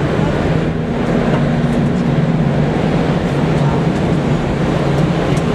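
Steady rumble of a moving passenger train, heard from an open window or door of one of its cars, with a constant low hum running underneath.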